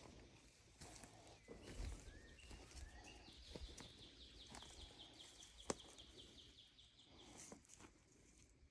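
Faint outdoor birdsong: a few short high notes, then a quick trill of repeated high notes from about three to seven seconds in. A single sharp click sounds near the six-second mark.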